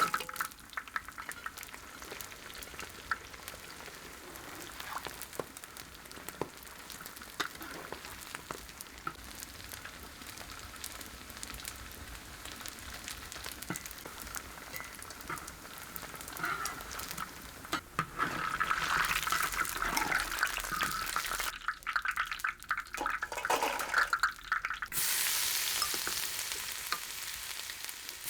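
Food frying and sizzling in hot oil in a wok, crackling with many small pops, with stirring. The sizzle gets louder in the second half, with abrupt changes in level between shots.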